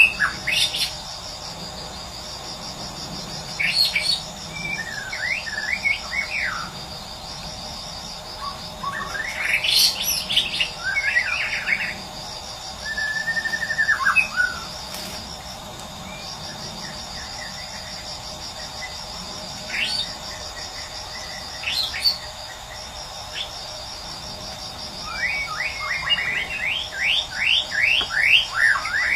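A wild songbird sings scattered short phrases of whistles and slurred notes over a steady insect chorus with a pulsing trill. Near the end it breaks into a quick run of repeated rising notes.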